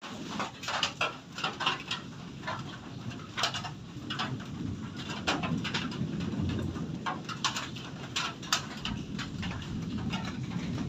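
Hurricane wind rumbling, with irregular sharp taps and patter over it.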